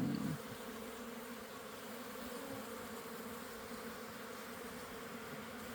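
Honey bees buzzing steadily around an opened hive as a continuous hum.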